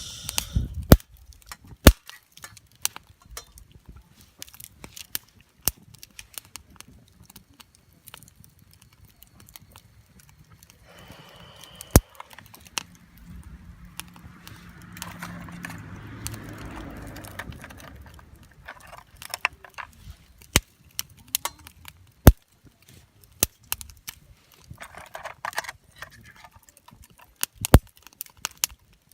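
Wood fire crackling, with sharp irregular pops and snaps, some of them loud. A softer rustling stretch comes in partway through.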